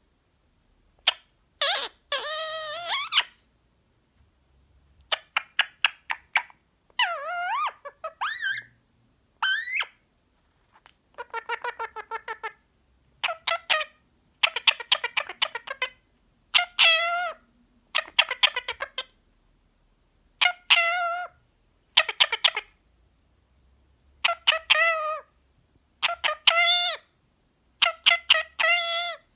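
Indian ringneck parrot talking: a string of short, high-pitched mimicked phrases with brief pauses between them.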